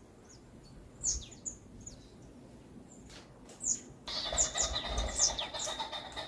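Wild birds chirping in a forest: short, high, falling chirps at first. About four seconds in, a denser chorus of many birds suddenly joins in.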